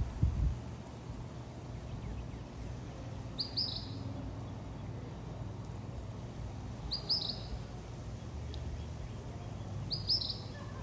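A small bird's short, high chirp, repeated about every three and a half seconds, over a low steady hum.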